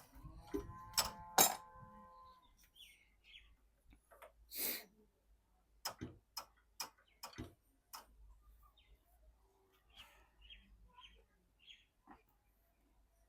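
Irregular light clicks and taps with a few short bird chirps; no engine is running.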